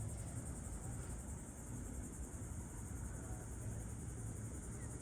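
A steady, high-pitched insect chorus trilling without a break, over a low steady rumble.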